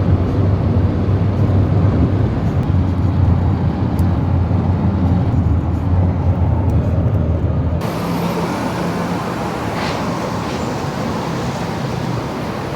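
Steady low rumble of a moving road vehicle. About eight seconds in it cuts abruptly to a steady, brighter rushing noise.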